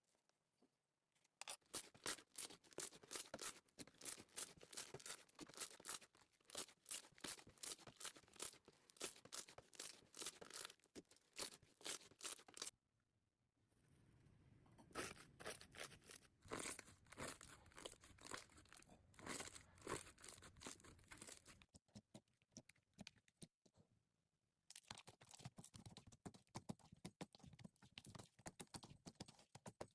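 Slime being squeezed and pressed by hand, giving quick runs of crackling, popping clicks, broken by short pauses as one clip gives way to the next.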